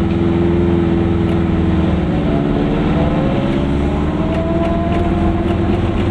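Goggomobil's two-stroke twin-cylinder engine running steadily while the car is driven. Its pitch sags slightly about halfway through, then climbs again.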